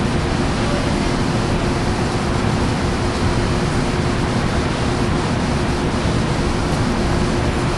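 Amtrak Coast Starlight's diesel locomotive idling at the station: a steady rumbling noise with a constant hum, unchanging throughout.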